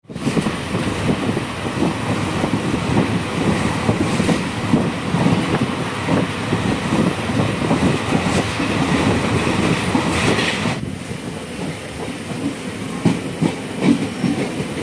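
Passenger train running along the track: a steady rumble with the clatter of wheels over rail joints. About eleven seconds in, the higher hiss drops away and the run goes on more softly, with a few louder knocks near the end.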